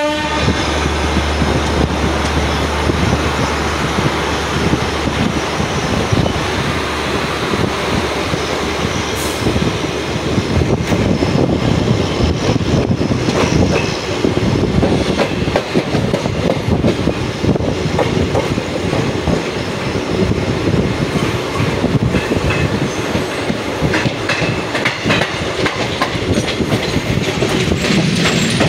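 Passenger express train rolling along the track, heard from the open door of a sleeper coach: a steady rumble of the wheels, with clicks over the rail joints that come more often from about ten seconds in.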